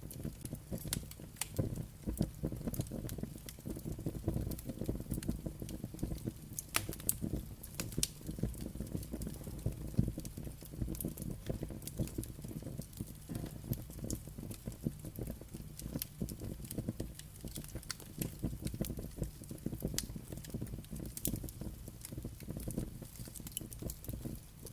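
Wood fire burning with a low steady rumble and frequent irregular crackles and sharp pops.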